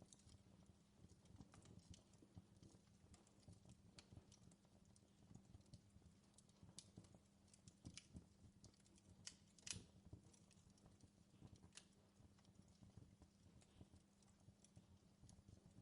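Faint fireplace fire crackling, with irregular small pops and snaps over a low steady hum; the sharpest pop comes about ten seconds in.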